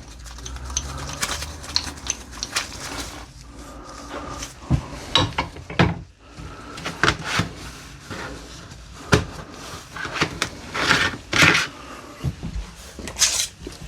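Irregular knocks, clinks and clatter of hard objects being handled and set down, a few of them sharp.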